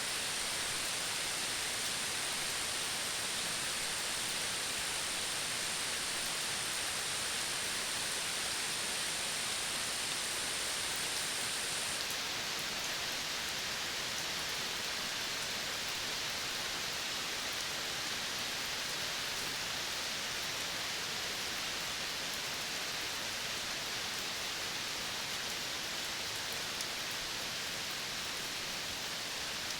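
Outdoor nature ambience of a Colombian Caribbean forest reserve: a steady, even hiss, with a high thin steady tone that stops abruptly about twelve seconds in.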